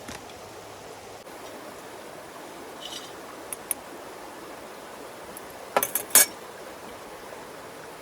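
A few short clinks and knocks, like small hard objects being handled, the loudest cluster about three-quarters of the way through, over a steady background hiss.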